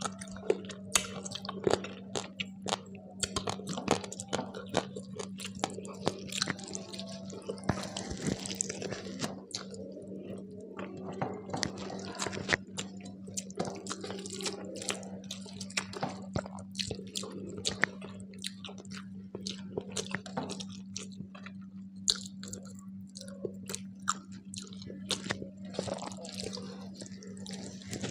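Close-miked chewing of a rice-and-curry meal: wet, smacking mouth sounds with many small clicks, going on without a break. A steady low hum runs underneath.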